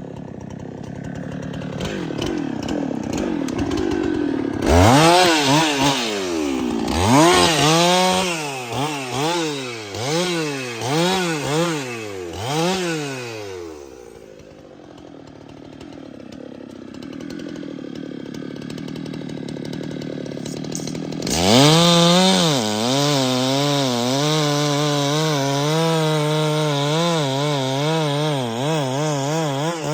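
Two-stroke chainsaw revved in short pulls about once a second for several seconds, then dropping back to a lower, quieter run. About two-thirds of the way in it is held at high revs with a wavering pitch while cutting into the tree's wood.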